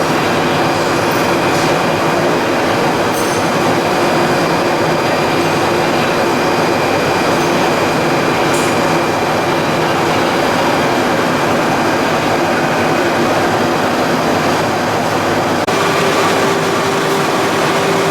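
Machinery of a PE and calcium carbonate pelletizing line running: a loud, steady mechanical noise with a constant hum. About 16 seconds in, the hum shifts to a slightly higher pitch.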